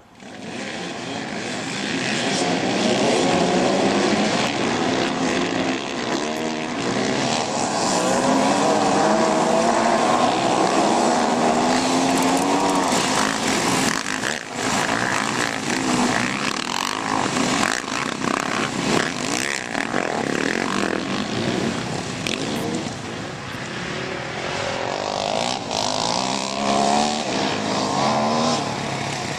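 Several enduro/motocross motorcycles running together, their engine notes overlapping and repeatedly rising and falling as they rev.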